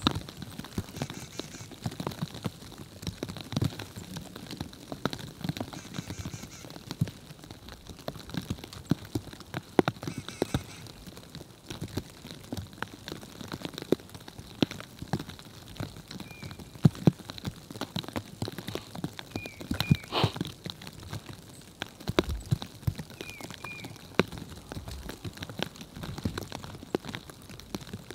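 Storm precipitation pattering and ticking irregularly on surfaces over a steady hiss. Short high chirps, mostly in pairs, come a few times in the second half.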